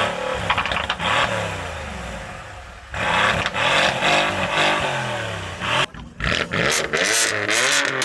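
Car engine revved hard twice, its pitch falling away after each rev; the sound cuts off sharply about six seconds in.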